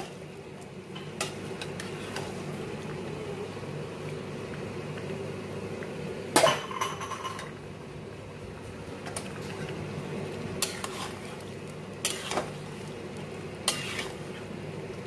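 Raw mutton pieces frying in spiced oil in a metal pot, a steady sizzle as the meat is seared in the masala. A metal spoon knocks and scrapes against the pot a few times, with one loud clang about six seconds in.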